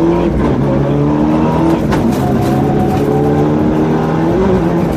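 Mitsubishi Lancer Evo 7 rally car's turbocharged four-cylinder engine, heard from inside the cabin under hard driving. Its pitch climbs and falls with the throttle and gear changes, dropping about half a second in, again near two seconds with a sharp crack, then rising steadily before falling again near the end.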